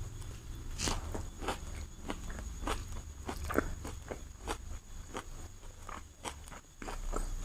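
Close-miked eating sounds of chicken biryani: irregular wet clicks and smacks of chewing, a few a second, over a low rumble.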